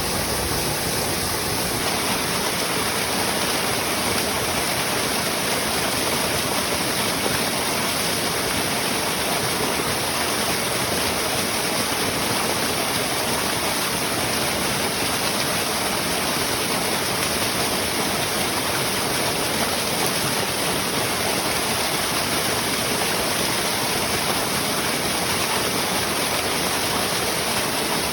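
Mountain stream water rushing and splashing steadily over rocks, an even hiss with no breaks.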